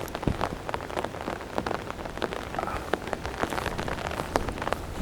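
Heavy, cold rain falling steadily, with many close raindrops ticking irregularly over the steady hiss.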